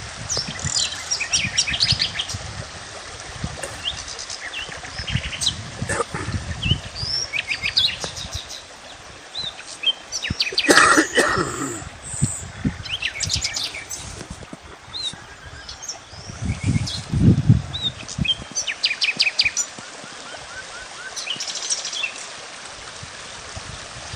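Several birds chirping and trilling in short, high calls throughout. A louder, harsher sound comes about halfway. Low rumbling bumps come at times, loudest a little after two-thirds of the way through.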